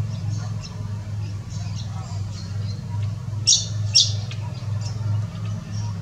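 Two short, sharp bird calls about half a second apart near the middle, over scattered faint chirping of other birds and a steady low hum.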